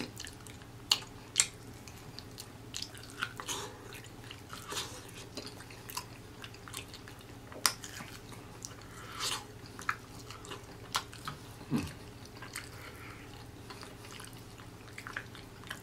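Close-miked biting and chewing of a homemade fried chicken drumstick, in irregular sharp crunches and mouth smacks.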